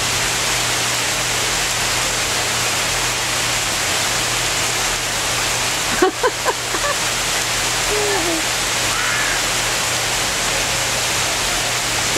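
Heavy rain pouring down, a steady hiss. A few short voice-like sounds come about halfway through.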